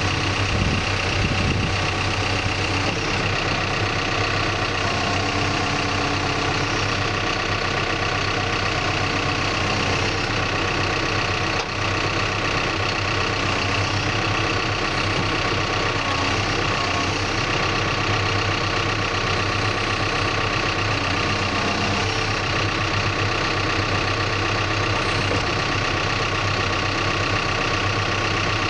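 Backhoe's diesel engine running at a steady speed, with a brief dip in loudness about twelve seconds in.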